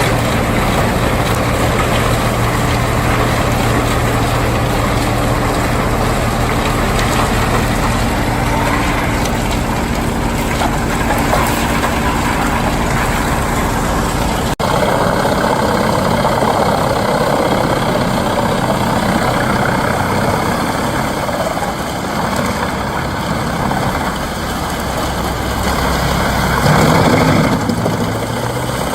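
Heavy wood chipper engine running steadily. About halfway through, the sound cuts to a noisier, rougher machine sound that swells near the end.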